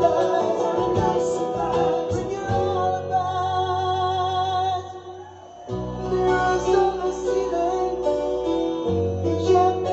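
Acoustic guitar playing with a singing voice. There is a long held note with vibrato in the middle, a brief drop in loudness, then the guitar and voice come back in.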